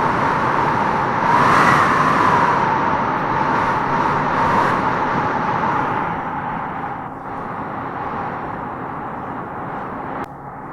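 Howling wind gusting through tropical trees. It swells strongest a second or two in and again about four seconds in, then eases, and drops suddenly near the end.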